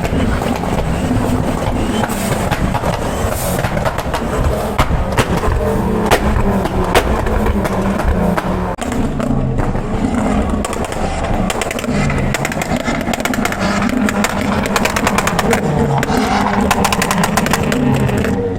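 Car exhaust popping and crackling repeatedly with many sharp cracks as the engine is revved, over music with a pulsing bassline.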